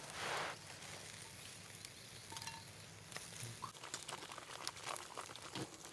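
Faint, scattered light clicks and taps of chopsticks and tableware during eating, over a low background hum.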